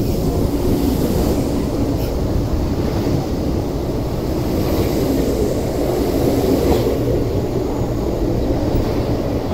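MTR East Rail Line MLR electric multiple unit train moving along the platform: a steady low rumble of wheels on rails and running gear.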